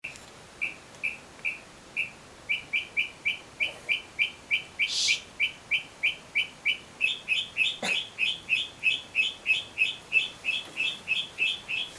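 A songbird singing loudly at night, repeating the same short high chirp over and over. It starts with a few spaced notes and then settles into a fast run of about three a second.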